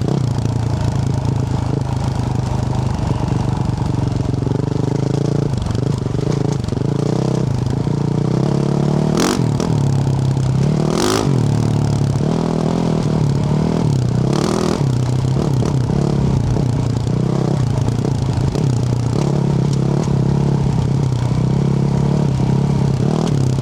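2024 Yamaha YZ450F's single-cylinder four-stroke engine through a Yoshimura RS-12 exhaust, running on and off the throttle with its pitch rising and falling, over the clatter of the bike on a rough track. A few sharp knocks cut through, the loudest about nine and eleven seconds in.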